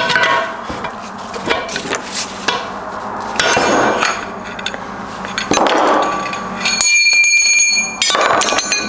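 Metal parts of a Subaru six-speed transmission knocking and clanking as it is taken apart, with repeated sharp strikes. About seven seconds in, a struck metal part rings briefly with a clear tone.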